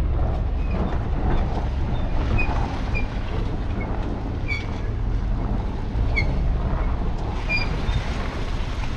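Work truck driving, heard from inside the cab: a steady low engine and road rumble with scattered short, high squeaks and rattles from the cab.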